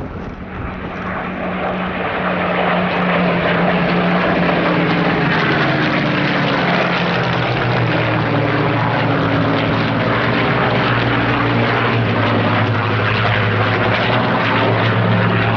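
Rolls-Royce Merlin V12 piston engine of a Second World War fighter flying past. The engine note builds over the first few seconds, stays loud and steady, and drops in pitch around the middle as the aircraft passes.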